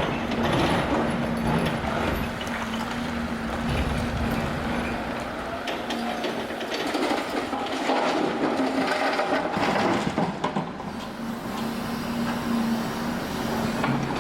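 Demolition machinery at work: a heavy diesel engine running steadily, with rubble and timber crunching and scraping, busiest in the middle.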